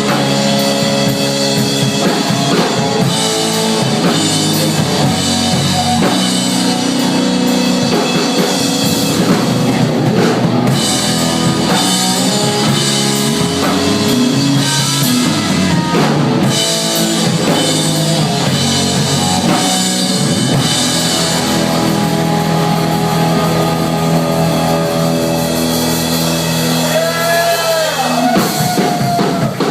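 Rock band playing an instrumental passage, with drum kit, guitars and bass; a note bends near the end.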